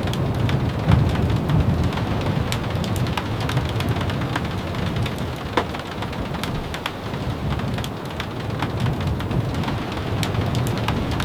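Steady rain over a continuous low rumble, with many scattered sharp ticks and taps.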